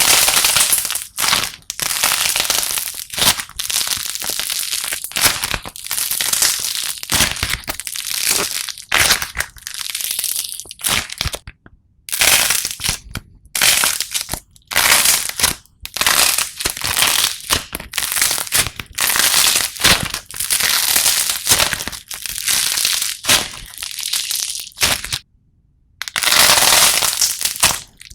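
Slime being worked by hand, giving a steady run of crisp crackling and crunching bursts. It cuts out briefly twice.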